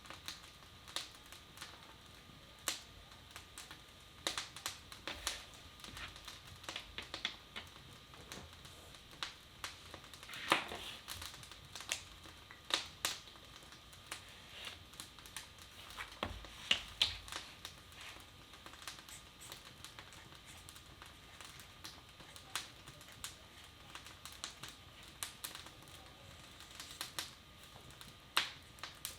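Wood fire in a fireplace crackling, with irregular sharp pops and snaps at uneven intervals, a few louder ones clustered about ten and seventeen seconds in.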